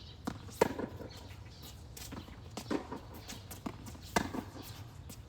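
Tennis balls struck by rackets during a rally: a run of sharp pops, the two loudest about half a second in and about four seconds in, with fainter knocks between.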